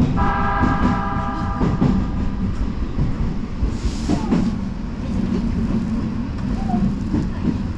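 Odakyu Line electric commuter train running along the track, a steady low rumble with clicks from the wheels over the rails. A brief steady multi-note tone sounds just after the start, and a short hiss comes about four seconds in.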